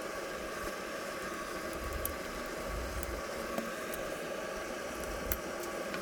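Steady hissing background noise with a few faint clicks and a low rumble underneath.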